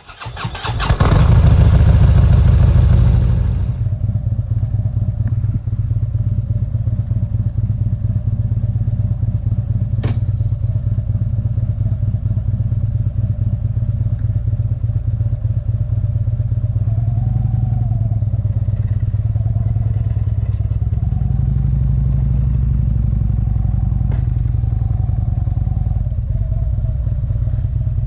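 Motorcycle engine bursting into a loud run for about three seconds, then settling into a steady low-pitched running that rises and falls a little in revs. A single sharp click about ten seconds in.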